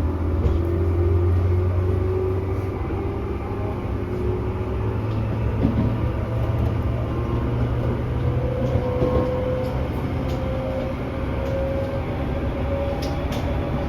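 Tobu 10000 series electric train running, heard from inside a motor car: a steady low rumble with a motor-and-gear hum that rises slowly in pitch as it gathers speed. Near the end come a couple of sharp clicks.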